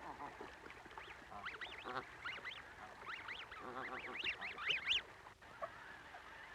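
Newly hatched young birds peeping: many quick, high calls that rise and fall, coming thickest and loudest in the second half.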